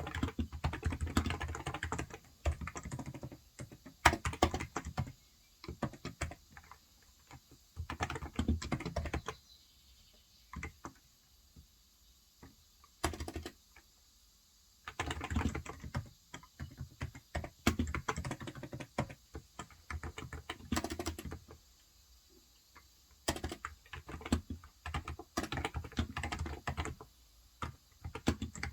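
Typing on a Cox Endeavor electrostatic capacitive (Topre-style) tenkeyless keyboard with light 35 g switches, in runs of quick keystrokes broken by pauses of a few seconds.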